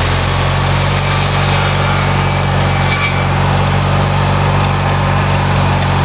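Small engine of a homemade sawmill built from lawnmower parts, running steadily at a constant speed.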